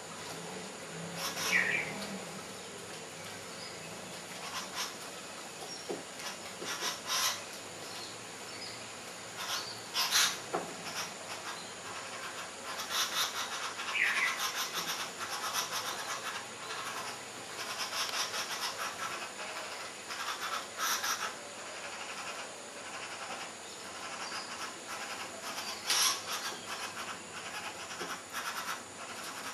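Outdoor ambience with a steady high insect drone throughout, two short chirping calls about twelve seconds apart, and scattered brief scratchy noises.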